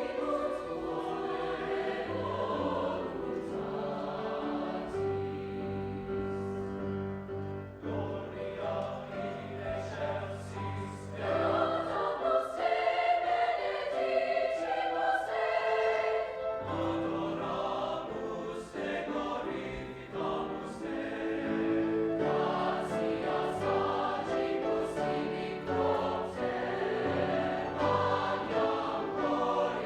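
High school choir singing a piece in harmony, voices holding and moving between sustained notes.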